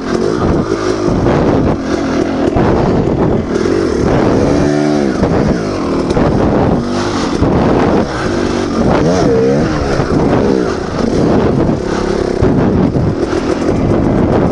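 Dirt bike engine running under load while riding, its pitch rising and falling repeatedly as the throttle is opened and closed.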